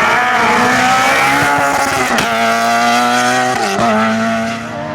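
Rally car engine running hard at high revs with a steady note, broken twice by brief dips about two seconds and three and a half seconds in.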